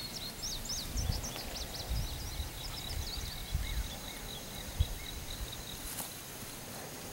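Small birds chirping in rapid, high, sharp notes, busiest in the first three seconds and thinning out after. A thin, steady high tone comes in about halfway, with a few low bumps on the microphone.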